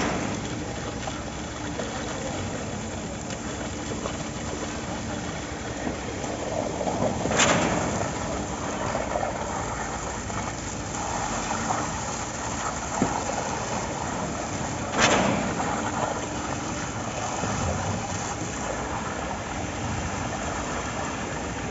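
Concrete-pouring machinery with its engine running steadily and a short, sharp loud sound repeating about every seven and a half seconds.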